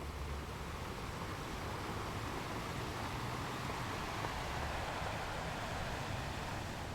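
Sea waves washing in a steady rush of surf, with one wave swelling to a peak about four to five seconds in and then easing off.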